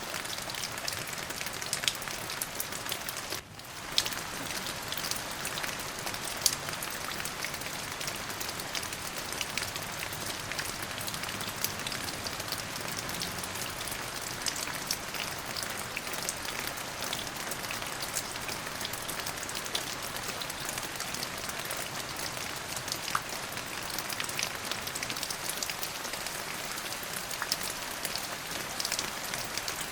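Steady rain with many individual drops pattering on a surface. The sound briefly dips about three and a half seconds in, then comes back.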